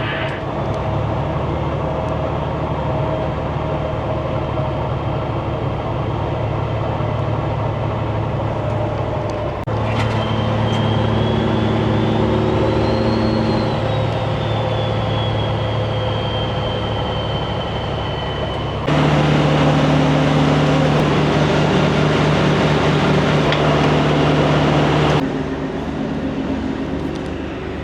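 Semi-truck diesel engine running steadily while driving. Its drone jumps abruptly in pitch and loudness about ten seconds in and again about nineteen seconds in, then drops back a few seconds before the end. A faint high whine rises and falls in the middle.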